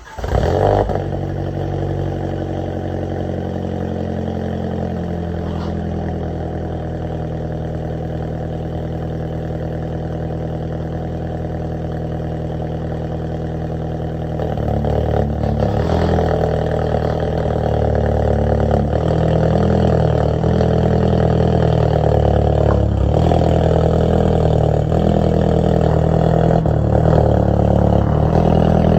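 Alfa Romeo MiTo Veloce's 1.4-litre turbo four-cylinder engine starting from cold. It catches with a brief flare of revs, then settles into a steady, raised cold idle. From about halfway it grows louder and the engine note shifts up and down unevenly.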